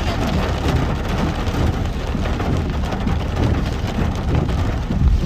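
Rain on a moving car, heard from inside the cabin along with the steady low rumble of the car driving.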